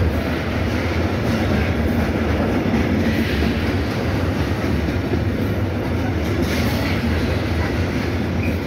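Intermodal freight train's container wagons rolling past, a steady, loud rumble of steel wheels on rail.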